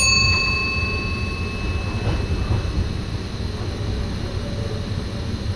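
NS SGM Sprinter electric train running along the track, heard from inside the driver's cab as a steady low rumble. Right at the start a single ringing cab chime sounds and dies away over about two seconds.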